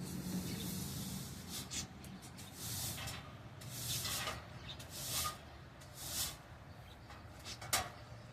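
Broom sweeping the floor of a pet enclosure: a series of irregular, short brushing strokes, about one every second or so, the sharpest one near the end.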